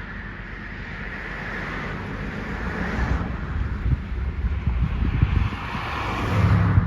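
A vehicle going by, its hiss swelling and peaking near the end, with wind gusting on the microphone.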